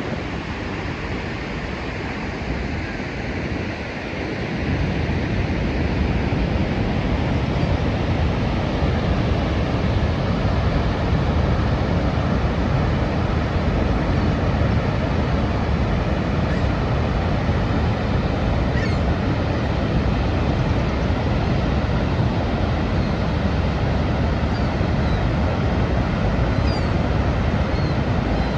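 Niagara Falls' waterfall: a steady, dense rush of falling water, heaviest in the low end and unbroken throughout.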